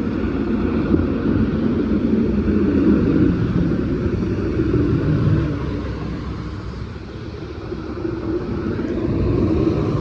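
Snowplow trucks and highway traffic driving past, a steady engine and tyre rumble that dips about two-thirds of the way through and swells again near the end as another vehicle comes by.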